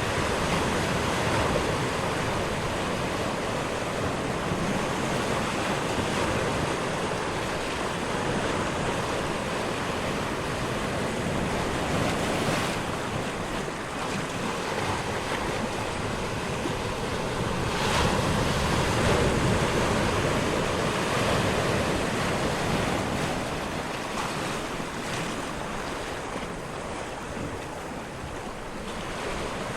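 Ocean surf: waves washing in as a continuous rushing noise that swells and eases, loudest a little past the middle.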